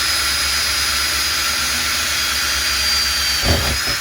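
Power drill running steadily at speed with a high whine, boring a hole through a car's sheet-metal floor.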